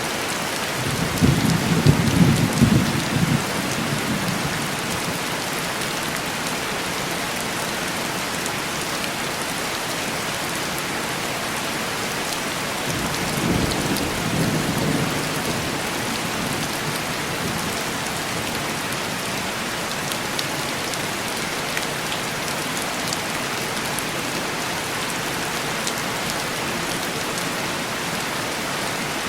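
Steady heavy rain on window glass, with two rolls of thunder: a louder one about a second in, lasting a few seconds, and a softer one about halfway through.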